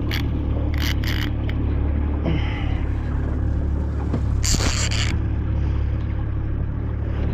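Steady low drone of a boat's outboard motor running, with short scraping noises about a second in and again, louder, about four and a half seconds in.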